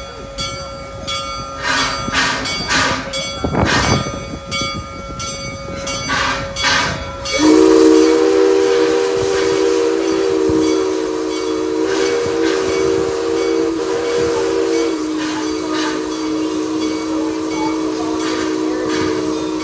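Steam locomotive of a park railroad: hissing steam puffs for the first several seconds, then its chime whistle blown in one long blast from about seven seconds in, a chord of several notes that drops to a lower chord about halfway through and holds for about twelve seconds in all.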